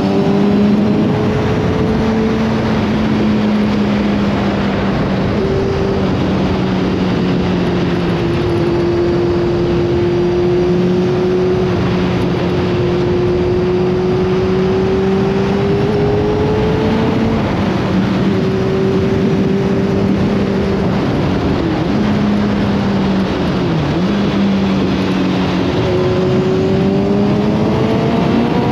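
Motorcycle engine running at a steady cruise, its note holding level with small rises and dips, under a thick rush of riding wind. In the last few seconds the engine note climbs as the bike accelerates.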